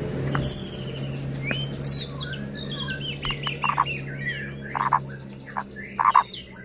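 White-rumped shama (murai batu) singing a fast, varied song of high whistles and glides, mixed with harsh buzzy notes and sharp clicks (the 'kretekan' crackle). The loudest phrases come about half a second and two seconds in.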